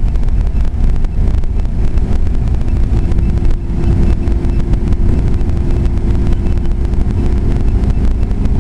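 A vehicle engine running, under heavy wind buffeting on the microphone; a steady engine hum stands out from about three seconds in until near the end.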